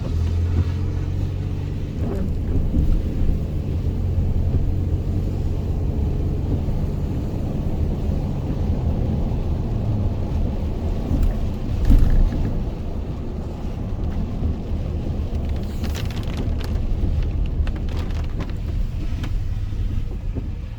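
Truck cab noise while driving: a steady low engine and road rumble with tyre hiss on a wet road, and a louder thump about twelve seconds in.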